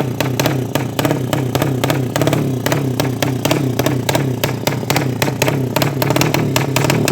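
A 200cc drag-race motorcycle engine running steadily, with a constant low tone and sharp cracks and clatter throughout.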